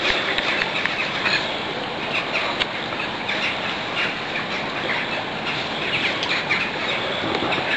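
Birds chirping repeatedly over a steady rushing hiss.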